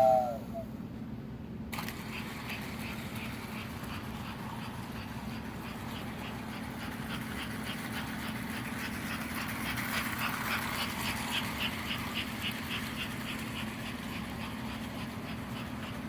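An American Flyer S gauge toy train runs on its track: a steady electric motor and transformer hum, with a quick series of light clicks from the wheels over the rail joints that speeds up as the train picks up pace. The tail of a short electronic chime fades out in the first moment.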